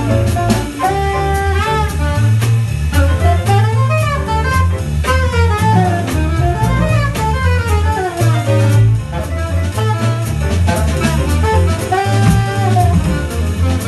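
Small jazz band playing: a saxophone runs quickly up and down over a walking double bass, a drum kit keeping time on the cymbals, with piano and guitar.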